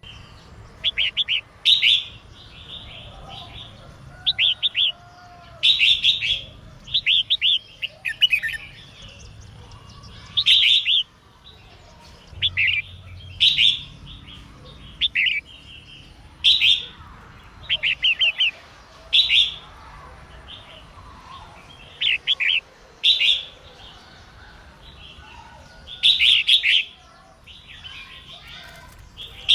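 Female red-whiskered bulbul singing short chirpy phrases, each a quick burst of a few notes, repeated every second or two, over a faint low hum.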